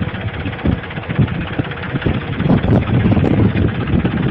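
Tractor engine running, with wind buffeting the microphone in an uneven low rumble.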